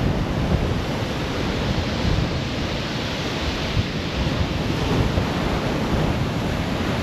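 Rough sea waves breaking and washing on a shingle beach, with gale-force wind buffeting the microphone. The surf swells louder and brighter around the middle.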